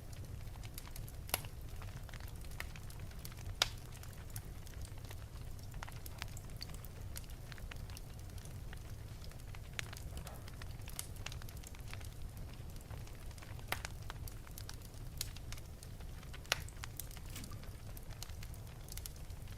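Wood fire burning in an open fireplace: a steady low rumble of the flames with irregular crackles and a few sharper pops.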